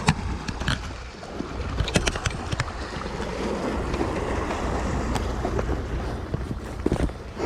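Wind buffeting an action camera's microphone with waves washing on the sea shore, and a few sharp knocks near the start and about two seconds in.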